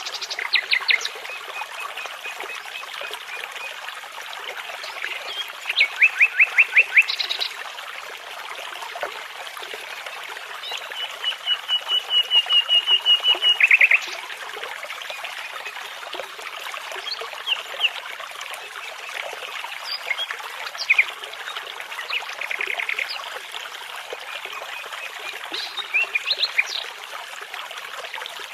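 Nightingale song over a steady babbling brook: phrases of fast repeated notes, the longest a run of about three seconds near the middle that grows louder and ends suddenly, with shorter trills and chirps around it.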